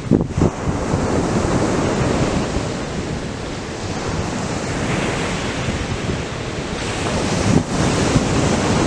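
Ocean surf breaking and washing on a beach in a steady wash of noise. Wind buffets the microphone in low rumbles just after the start and again near the end.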